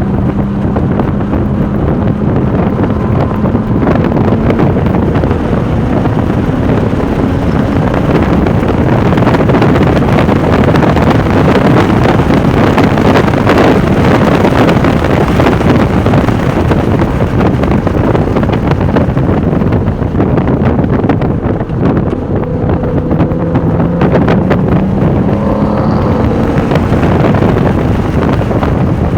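Porsche 996 Turbo's twin-turbo flat-six running hard at track speed, its pitch rising and falling with the revs, under heavy wind noise on the microphone.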